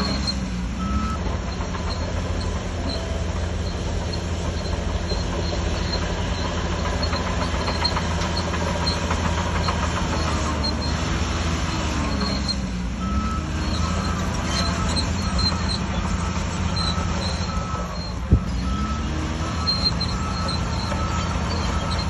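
Heavy diesel engine of a Shantui DH17C3 crawler bulldozer running hard, its pitch dipping and climbing again a few times as the load changes. A repeating beep comes and goes, and there is one sharp knock late on.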